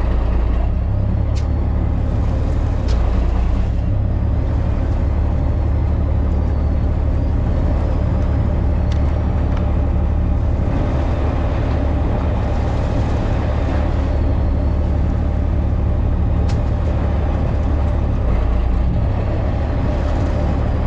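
Fishing boat's engine running steadily, a loud low drone, with a few sharp clicks scattered through it.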